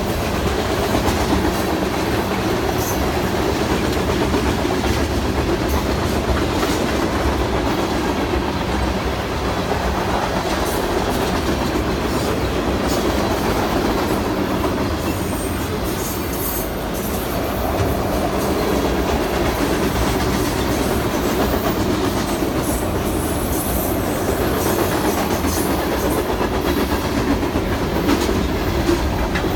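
Union Pacific train rolling past, a continuous steady rumble with the steel wheels of its cars clicking and clacking on the rails.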